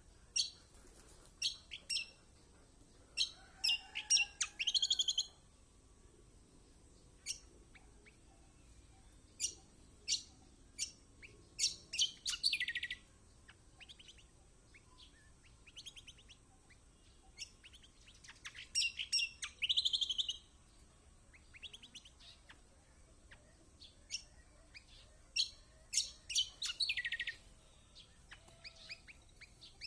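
Kecial kuning (white-eye) song: sharp single chirps and fast, high twittering trills in repeated spells about every seven seconds, several spells ending in a falling trill. A faint steady high whine runs underneath.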